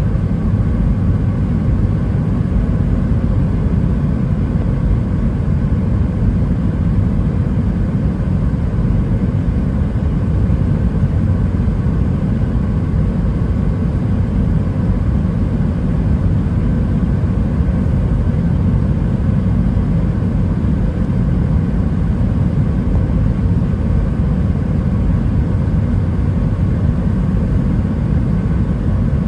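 Airbus A320-212 cabin noise: a steady, even rumble of engines and airflow, with faint steady whining tones above it.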